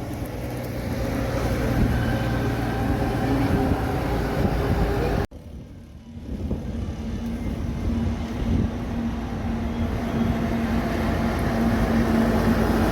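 Truck engine running, loud and steady. The sound drops away abruptly about five seconds in, then builds again with a steady droning hum.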